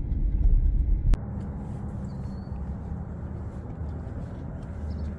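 Heavy low rumble that breaks off with a click about a second in, followed by a steady low mechanical hum with one held tone.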